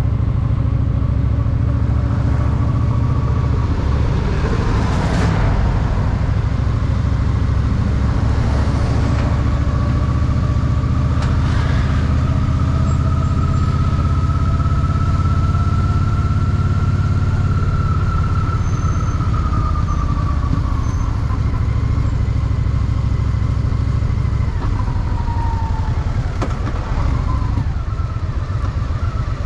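Honda Shadow VT750's V-twin engine running under way with a steady low rumble, heard from the saddle. A higher whine rises and then falls away through the middle, and the engine eases off near the end.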